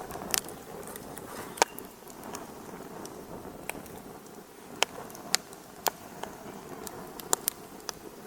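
Fireplace fire crackling: a steady soft hiss with sharp pops at irregular intervals, the loudest about a second and a half in.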